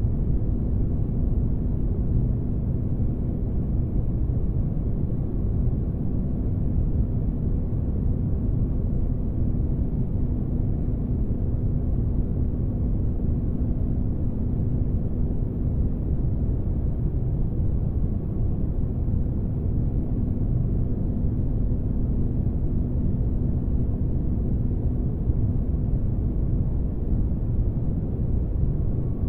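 Synthetic spaceship-interior ambience: a steady deep rumble with a faint low hum, used as sleep noise.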